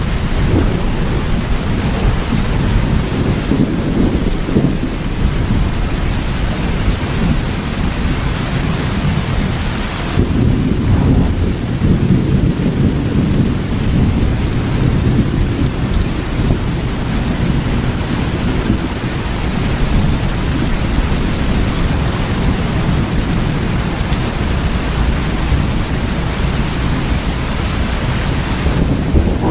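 Steady heavy rain hissing, with a continuous low thunder rumble rolling underneath.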